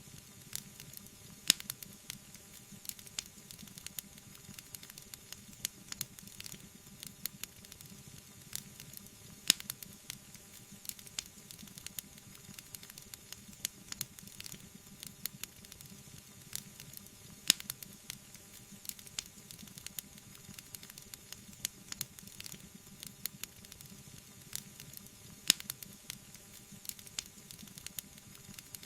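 Wood fire burning, with a steady hiss and frequent small crackles. A sharper pop comes about every eight seconds.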